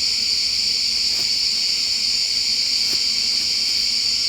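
Steady, shrill chorus of forest insects, a continuous high-pitched drone that holds an even level throughout, with a couple of faint clicks.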